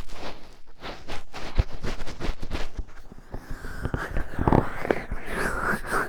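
A fingertip digging and scratching in an ear right at the microphone, for finger ear-cleaning ASMR. Quick crackly scratches give way, about three seconds in, to a muffled, rumbling rub with a few low thumps.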